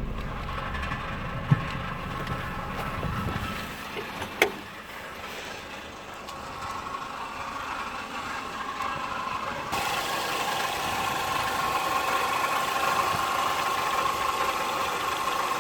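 Renault Symbol's 1.4-litre engine running at a steady idle, with two sharp clicks in the first few seconds and a steady hum that gets a little louder about ten seconds in.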